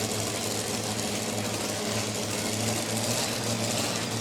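Pulling truck engine idling steadily, a low even hum with a hiss above it.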